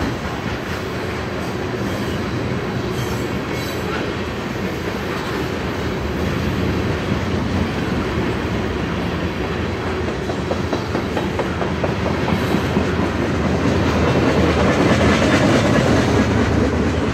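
Freight train's tank cars and a covered hopper rolling past: a steady rumble of steel wheels on rail with a run of clicks from the wheels over the track, growing louder about three-quarters of the way through.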